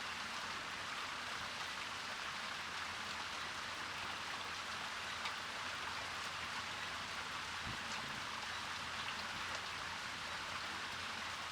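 A garden fountain splashing and trickling steadily.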